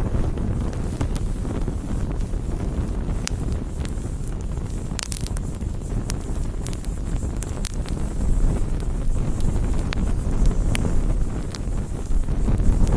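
Campfire burning: a steady low rush of flames with sharp crackles and pops of burning wood scattered through, a small cluster of them about five seconds in.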